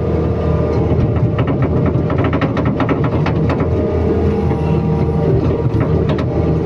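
Excavator's diesel engine running steadily, with a rapid series of short sharp metallic knocks and clanks over it through most of the stretch.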